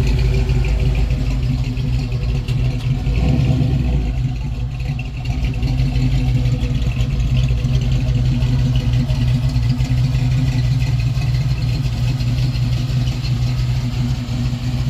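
A performance car's exhaust rumbling loudly and steadily at low revs, swelling slightly about three to four seconds in.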